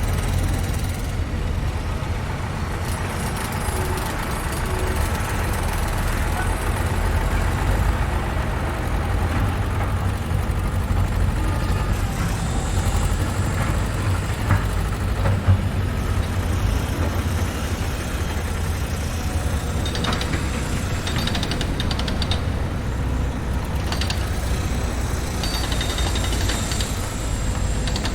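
Construction-site machinery: heavy engines running in a steady low rumble, with scattered metallic clanks and knocks. A single sharp knock comes about fifteen seconds in.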